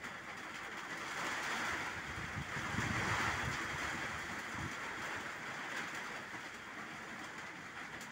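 Steady rain falling on open water and leaves, swelling about a second in and easing after the middle. A gust of wind rumbles on the microphone near the middle.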